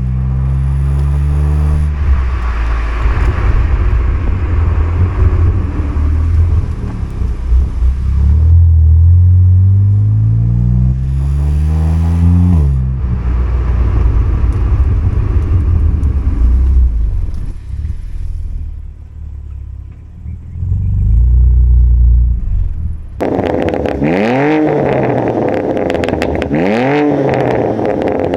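BMW M4's S55 twin-turbo inline-six revving through a Hurricane 3.5-inch valved straight-pipe exhaust. It makes repeated rises in revs, with one long climbing rev about nine seconds in that cuts off sharply. Near the end come two quick rev blips that rise and fall.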